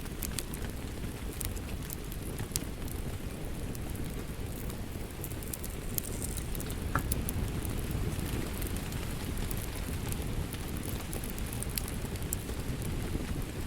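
Steady rain with a crackling wood fire: a constant low rush of rainfall with sharp pops and snaps from the fire scattered through it.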